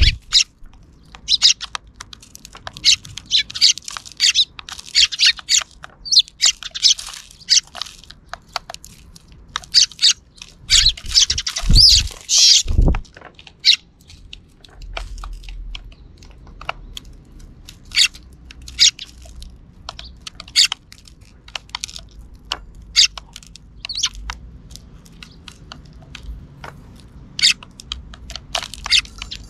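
A flock of sparrows chirping: many short, high chirps, busy through the first half and thinning out later. Two or three low thumps come a little before halfway.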